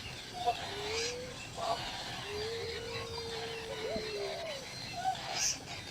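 A bird's low, hooting calls: short rising-and-falling notes and one long held note of about two seconds, with fainter high chirps above.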